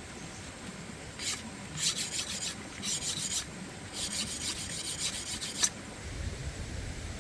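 Rasping, scraping strokes in four bursts, the last and longest lasting under two seconds, then stopping.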